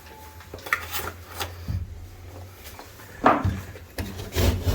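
Intermittent knocks and clatter of tools and hard objects being handled and moved about, as in rummaging for a utility knife, with a louder clatter about three seconds in.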